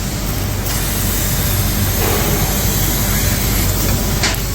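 Steady machinery noise with a low electrical hum, with a brief click near the end.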